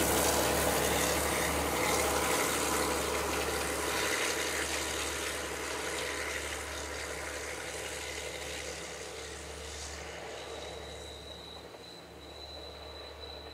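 Sri Lanka Railways Class S12 diesel multiple unit running away down the track, the rumble of its engine and wheels on the rails fading steadily. A thin steady high tone comes in near the end.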